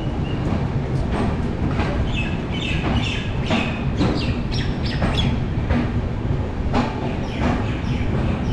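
Passenger train running, heard from on board: a steady rumble of wheels on track with frequent clicks of rail joints. Short high-pitched squeaks come between about two and five seconds in.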